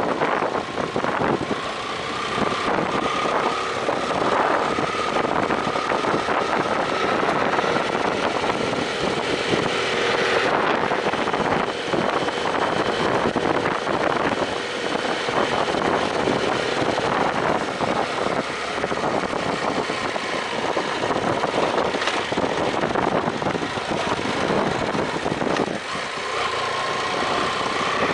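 BMW F800GS parallel-twin motorcycle engine running steadily while riding, with a continuous rush of wind and road noise and small rises and falls in engine pitch, picked up by a helmet-mounted camera.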